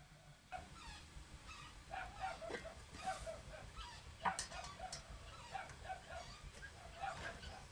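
Animals calling in many short repeated notes, a few each second, with a sharp click about four seconds in.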